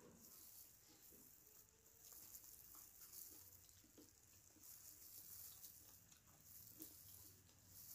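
Near silence, with faint sounds of people eating by hand: soft chewing, small mouth smacks and a light crackle.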